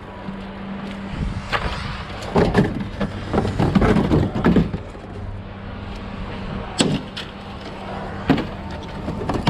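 Scrap being unloaded by hand: irregular bangs and clatters of junk thrown onto a pile, densest a couple of seconds in, with two single bangs later, over the steady hum of an idling engine.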